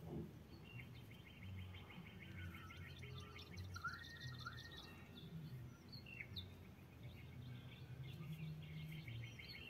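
Faint birdsong: a rapid trill that repeats on and off, with a few short curved chirps around the middle, over a low steady hum.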